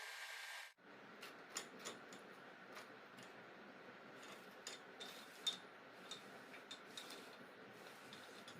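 Faint, scattered clicks and light taps, about a dozen at irregular intervals, from trampoline frame parts being handled and fitted together during assembly. A steady hiss cuts off just under a second in.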